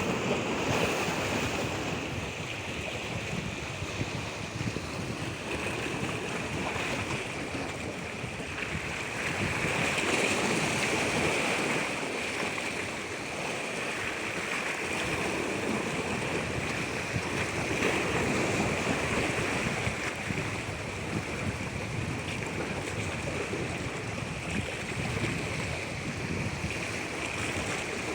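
Water rushing steadily, swelling louder and easing off a few times.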